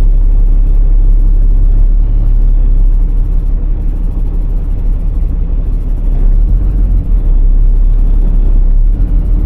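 Iveco Tector truck's six-cylinder diesel engine running, heard from on board as a steady low rumble.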